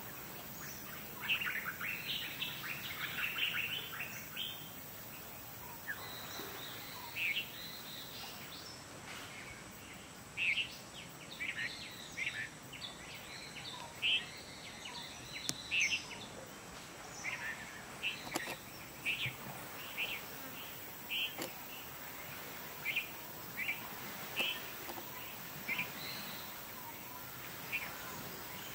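Wild birds chirping: short, high calls every second or so over a steady outdoor hiss, with a dense flurry of calls in the first few seconds.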